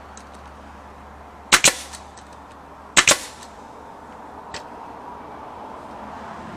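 Two sharp bangs about a second and a half apart, each with a quick double snap, over a steady hum.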